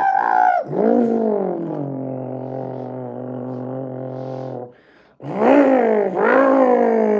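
A man's voice imitating a Ford GT's engine. Buzzing revs climb sharply and drop back, then settle into a steady drone. After a short break about five seconds in, two more revs rise and fall away.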